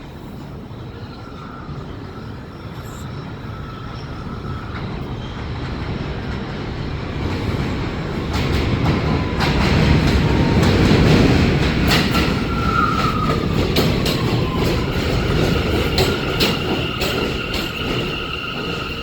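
New York City subway train running into an elevated station, growing louder to a peak about halfway through. Its wheels click over the rail joints, and steel wheels on the rails squeal in high, steady tones, briefly in the middle and again near the end as it slows.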